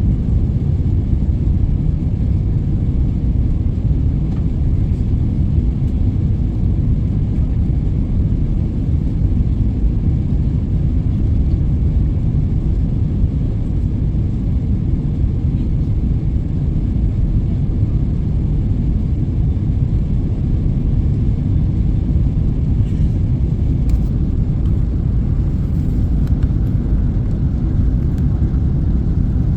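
Airliner cabin noise: a steady low rumble of engines and airflow that does not change.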